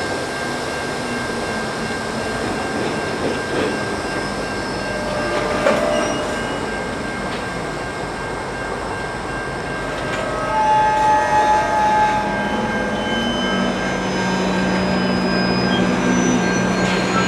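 Freight train of tank cars rolling slowly through a grade crossing, its wheels squealing on the rails in short high squeals about ten seconds in. A steady high tone sounds throughout, and a low steady drone comes in about two-thirds of the way through.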